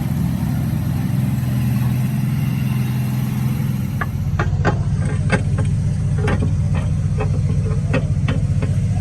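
Car engine idling steadily, with a run of short sharp clicks and knocks starting about four seconds in.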